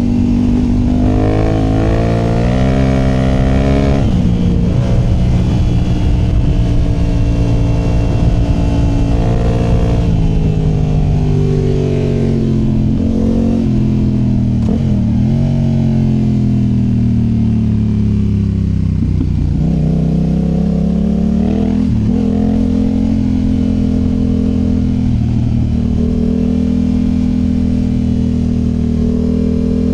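A 2019 Yamaha Tenere 700's 689 cc parallel-twin engine running through a MIVV Dakar high exhaust, heard close to the exhaust outlet while being ridden. The engine note rises and falls over and over with the throttle, dropping low twice around the middle before climbing again.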